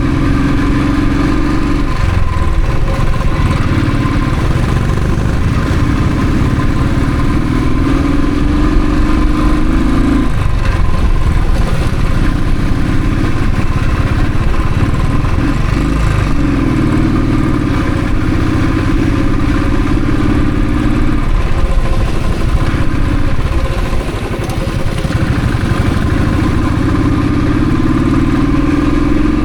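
Royal Enfield Thunderbird's single-cylinder engine running on the road, its pitch climbing over several seconds and dropping back again and again as the bike accelerates and shifts gear.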